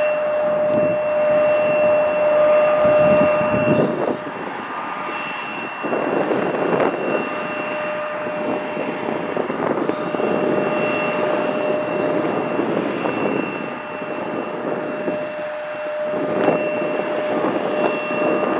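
Jet airliner engines running: a steady high whine with several held tones over a rushing rumble.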